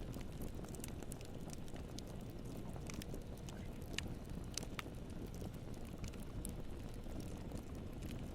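Wood campfire burning: scattered sharp crackles and pops of the burning wood over a steady low rumble.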